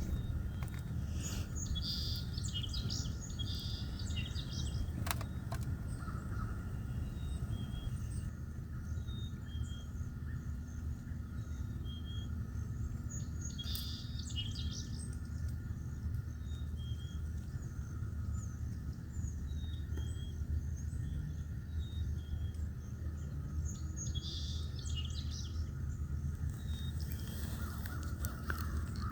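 Wild birds calling: short high chirps scattered throughout, with busier bursts of calls a couple of times, over a steady low background rumble.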